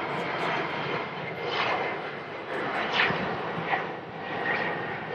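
Airplane engines running at an airport, a steady broad rush with a faint high whine held through it.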